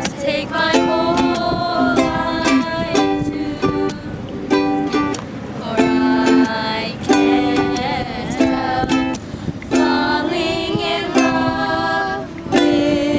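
Ukulele strummed in a steady rhythm, with chords changing every second or so.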